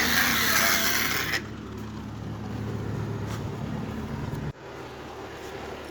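Massey Ferguson tractor engine running, under a loud rushing noise for the first second and a half. The sound drops abruptly about four and a half seconds in and carries on quieter.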